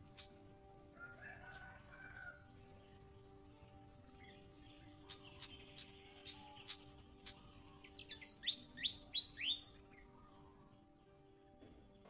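Small birds calling: sharp high chip notes, then a quick run of about five rising notes about eight seconds in, over a steady pulsing high insect buzz.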